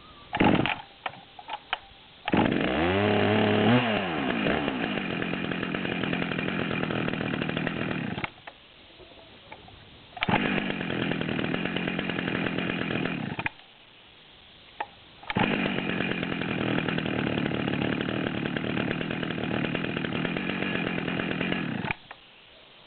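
Dolmar PS-9010 two-stroke chainsaw on a cold start: after a few short pops it catches about two seconds in, with the engine pitch rising and falling as it revs. It then runs loud at high throttle in three long stretches, dropping to a much quieter level in between.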